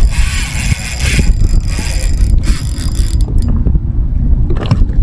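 Fishing reel working under load while a big red drum is fought, a rapid mechanical clicking and whirring over a low rumble, busiest in the first second or so.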